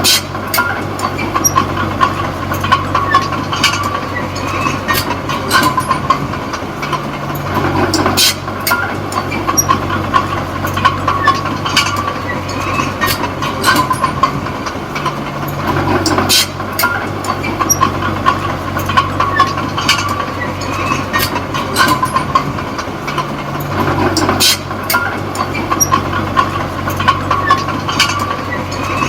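Komatsu D20P small crawler bulldozer working: a steady diesel engine note that swells and eases about every eight seconds, under a constant clanking and squealing of the steel tracks.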